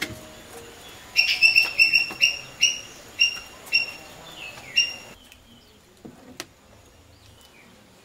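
A bird chirping: about a dozen short, sharp calls, quick at first and then spacing out, stopping about five seconds in.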